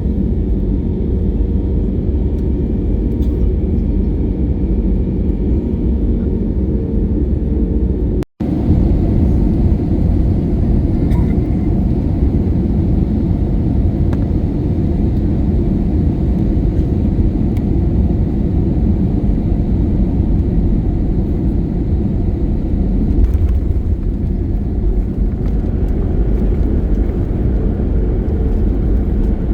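Steady jet engine and airflow noise heard inside the cabin of an Airbus A321neo, its Pratt & Whitney geared turbofans running. About eight seconds in it breaks off for an instant at a cut, then goes on a little fuller in the low end.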